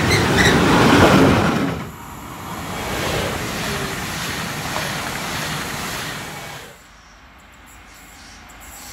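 A freight train of covered goods wagons rushes past at speed, cut off abruptly about two seconds in. An electric regional multiple unit then passes with a steady rushing noise. This also stops abruptly, leaving quiet open-air noise as a distant electric locomotive approaches.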